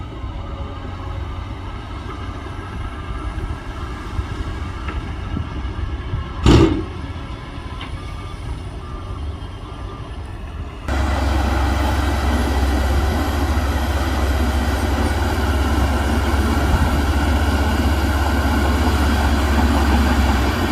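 Heavy diesel construction machinery running with a low rumble, a reversing beeper sounding during the first half. There is a short sharp burst of noise about six seconds in. At about eleven seconds the engine noise jumps abruptly louder and stays heavy.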